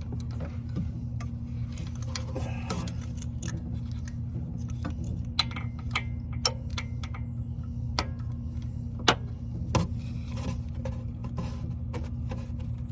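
Irregular metallic clicks and taps of a hand wrench working at a bolt in a car's engine bay, over a steady low hum.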